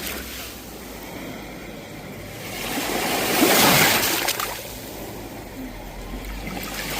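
Sea waves breaking on a shore: one wave swells to its loudest about three to four seconds in and washes back, and the next begins to build near the end.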